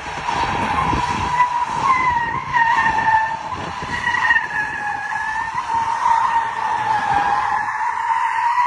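Car tyres squealing in one long continuous screech, the pitch wavering slightly up and down, as in a sustained skid or slide.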